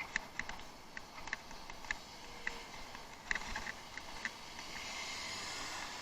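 A bicycle rattling and ticking as it is ridden over rough off-road ground, with irregular sharp clicks every fraction of a second. A hiss builds up over the last two seconds.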